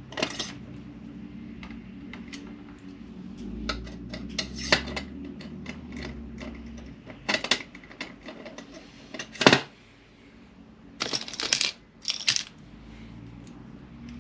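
Small metal tools and hardware clinking and clattering as they are handled and set down while working on an RC car: a run of sharp metallic taps, the loudest about nine and a half seconds in, then a quick cluster of clinks a little later.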